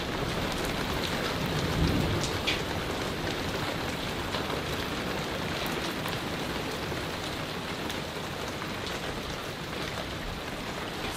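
Heavy rain pouring steadily during a thunderstorm, with a brief low rumble about two seconds in.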